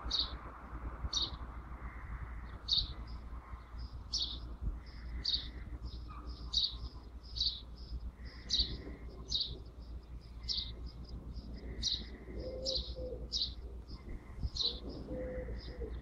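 A bird chirping over and over: short, high chirps, a little over one a second, with some softer, lower notes between them and a steady low rumble underneath.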